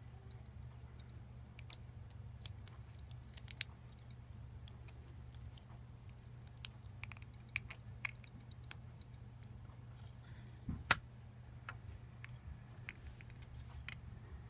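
Scattered small clicks and taps of parts and tools being handled while a replica lightsaber hilt is taken apart, with one sharper knock about eleven seconds in, over a steady low hum.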